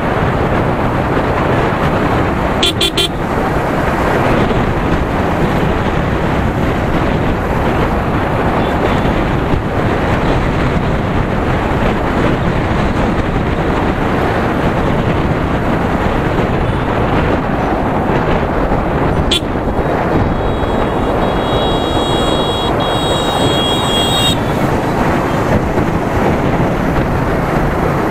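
Steady wind rush and engine of a Yamaha R15 V3 motorcycle being ridden. A short horn toot comes about three seconds in, and a longer horn blast lasts about four seconds past the two-thirds mark.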